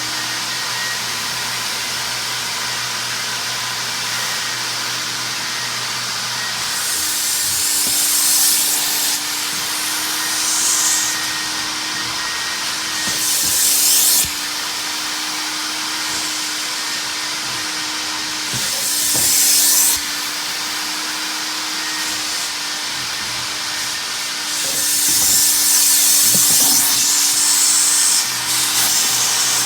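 Mytee Lite 8070 hot water carpet extractor running with a steady vacuum-motor hum, rising several times into a louder hissing rush as the wand sprays and sucks water back out of the truck's carpet.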